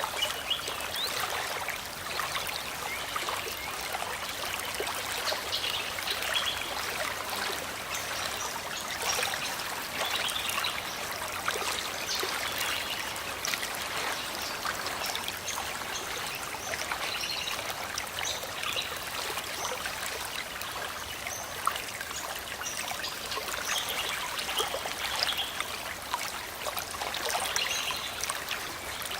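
River water running over rocks, a steady babbling and trickling with many small splashes.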